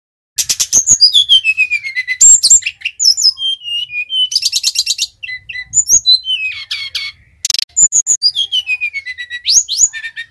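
Sikatan rimba dada coklat (a jungle flycatcher) singing a loud, energetic song. Quick high chattering notes alternate with whistled runs that fall steeply in pitch, and the pattern repeats twice.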